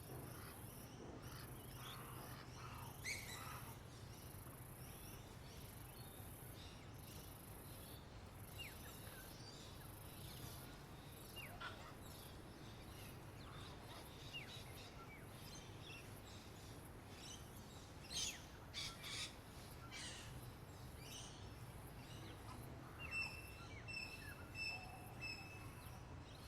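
Songbirds chirping and calling in scattered short notes over a faint steady background, with a cluster of louder chirps about two-thirds of the way in and a few short repeated whistled notes near the end.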